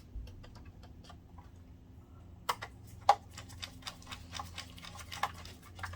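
Irregular small clicks and taps of screws and a screwdriver being handled against a projector's metal and plastic parts, with a few sharper clicks, over a low steady hum.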